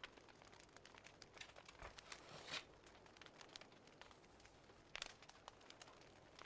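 Faint crackling of a wood fire: scattered irregular clicks and pops over a soft hiss, with louder pops about two and a half seconds and five seconds in.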